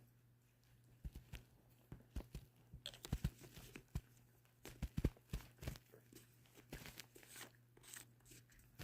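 A cat chewing and biting at catnip: faint, irregular crunching and clicking.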